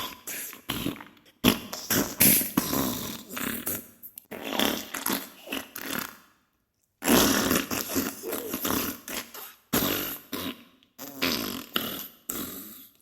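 Diarrhea sound effect: a run of wet, irregular sputtering farts in short bursts, with a brief break about six seconds in.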